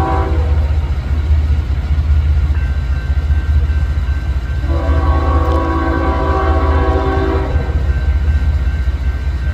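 Diesel freight locomotive's multi-chime air horn sounding two blasts, a short one cut off just after the start and a longer one held for about three seconds near the middle, over the steady deep rumble of the train.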